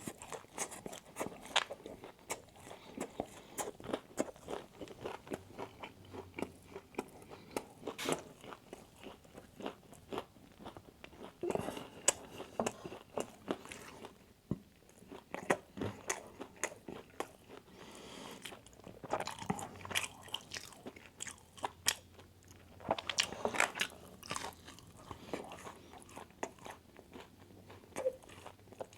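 Close-miked eating of Wingstop fried food: irregular crisp crunches as it is bitten, with chewing in between.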